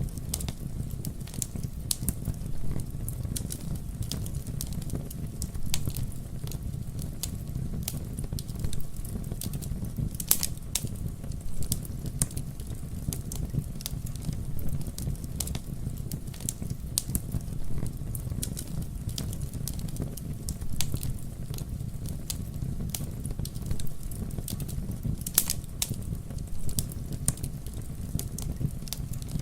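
Wood fire burning with a steady low rumble of flames and frequent sharp crackles and pops, a few louder pops standing out.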